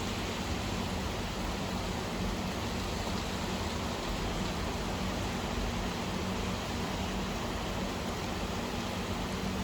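Steady rain, an even unbroken hiss, with a faint low hum underneath.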